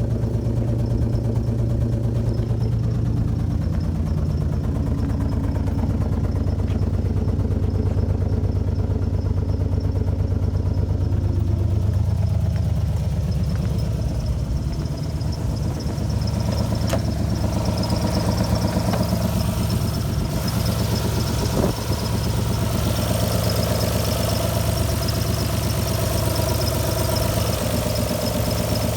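Alfa Romeo GTV V6 engine idling roughly after months parked, a rough run that the owner suspects is a misfire. The engine note changes about halfway through.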